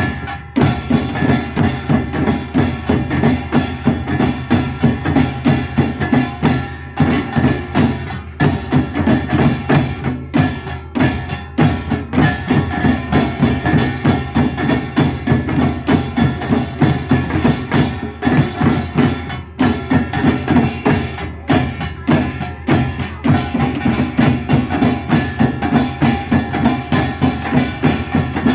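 Korean traditional percussion band (pungmul) playing a fast, steady beat of drums and other percussion, several strikes a second.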